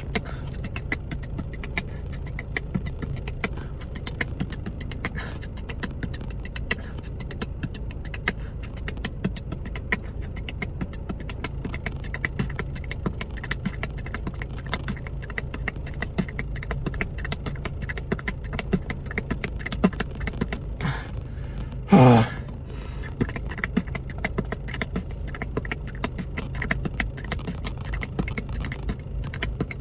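Beatboxing practice: fast, dense percussive mouth sounds drilled as repeated combos, over a steady low hum from the running car. About three-quarters of the way through, one loud, short voiced sound glides down in pitch.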